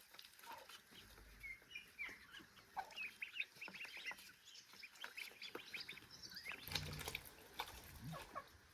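Domestic poultry calling softly: a scatter of many short, high peeps and clucks.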